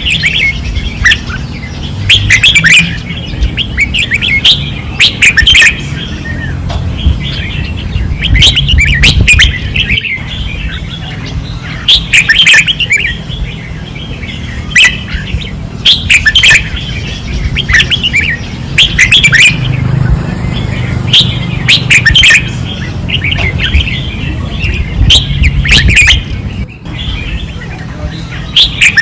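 Red-whiskered bulbuls singing hard, with loud, fast song phrases every second or two.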